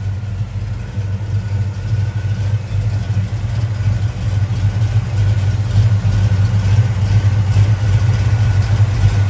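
A 1970 Chevelle's 396 big-block V8 idling steadily through headers and dual exhaust, a low, even exhaust note with no revving.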